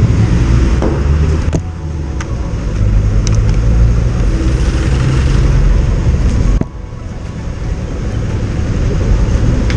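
Riding noise from a moving motorcycle in traffic: a steady heavy rumble of engine and road noise that drops suddenly twice and builds back up.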